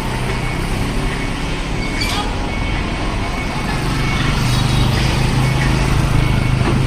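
Diesel engine of a Mitsubishi Morita ladder fire truck running as it reverses, a steady low hum that grows louder about four seconds in. A high reversing beep sounds on and off over street traffic noise.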